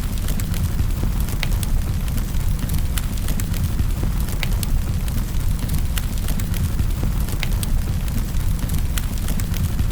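Wood fire in a fireplace crackling, with sharp irregular snaps and pops over a steady low rumble of the burning logs.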